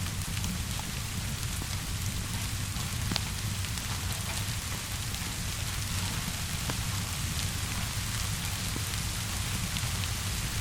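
Steady rainfall, an even hiss over a low rumble, with a few sharp crackles of a wood fire scattered through it.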